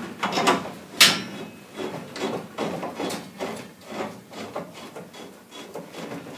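Metal clinks and knocks of a pipe union and wrenches being handled as a gas-pipe union is reattached to the valve: a run of irregular knocks, the loudest about a second in.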